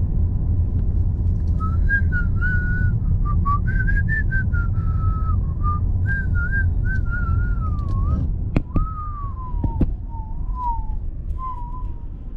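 A person whistling a wandering tune over a heavy low rumble; the rumble drops away about eight seconds in while the whistling carries on.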